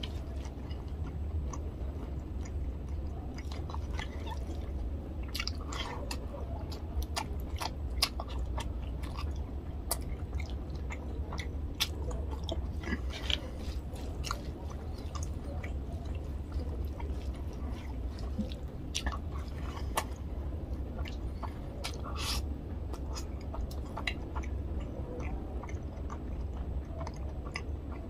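Close-miked chewing of a mouthful of rice and tilapia fish curry, with many short, scattered wet mouth clicks and smacks over a steady low hum.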